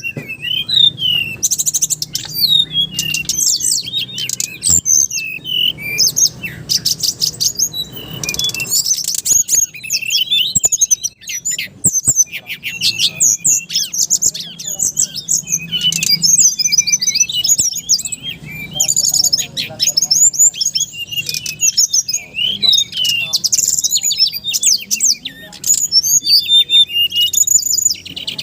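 Songbird singing loud and clear, a rapid run of high chirps, whistles and trills with barely a pause.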